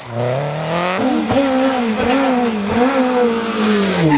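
Rally car engine revving hard, its pitch climbing, then rising and dipping again and again with the throttle, and falling away near the end, over tyre and road noise. The sound changes abruptly about a second in, as from one car or shot to another.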